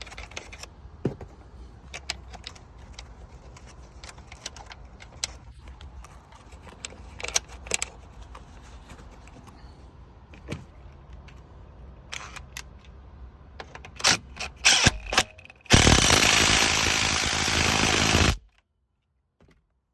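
Metal clicks and taps as a T50 Torx bolt is fitted to hold a replacement seat airbag. Near the end comes a loud, dense run of ratchet clicking for about three seconds as the bolt is driven in, which cuts off suddenly.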